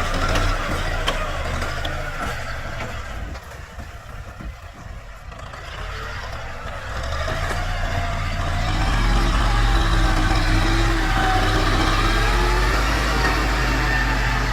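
Farm tractor's diesel engine running. It eases off about four seconds in, then revs back up and holds at higher revs.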